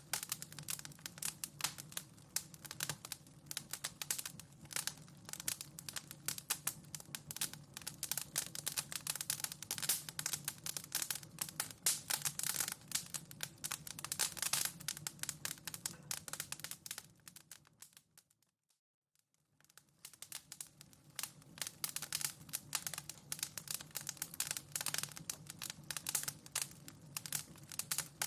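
Wood fire crackling in a fireplace: dense, irregular pops and snaps over a low steady rumble. About two-thirds of the way through, the crackle fades out to silence for about a second and fades back in, where the looped recording joins.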